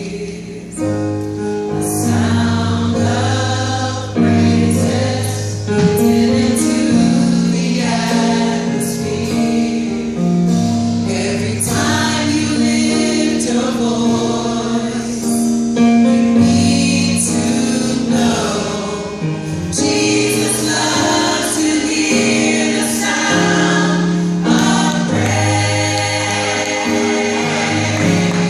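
Gospel choir singing a praise song with instrumental accompaniment: a steady bass line and percussion hits.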